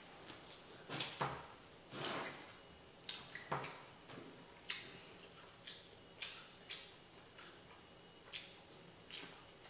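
A person eating rice and fried egg by hand: irregular wet chewing smacks and mouth clicks, about one or two a second, some louder than others.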